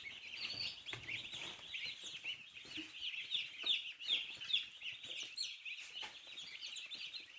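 A brood of meat chicks peeping: many short, high-pitched peeps overlapping without pause.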